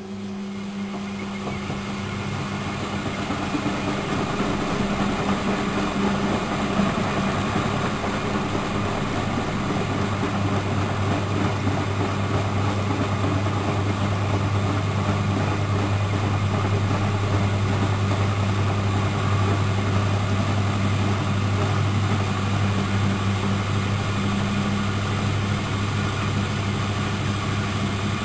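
Miele Professional WS 5105 washing machine running: a steady motor hum under a broad mechanical noise that builds over the first few seconds and then holds steady.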